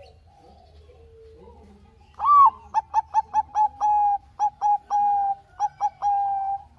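Zebra dove (perkutut, Bangkok song line) singing one song phrase starting about two seconds in. It opens with a coo, then a quick run of short notes, about four a second, broken by longer held coos, and ends on a long coo.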